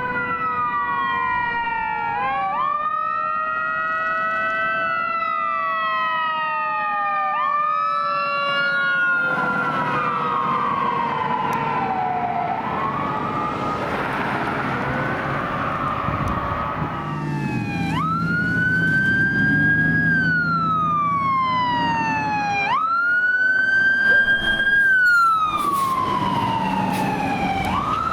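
Emergency vehicle sirens wailing, their pitch sweeping up and falling away in cycles of a few seconds, with two sirens overlapping at different pitches early on. From about 17 seconds in, a siren keeps wailing over the low rumble of a heavy vehicle's engine.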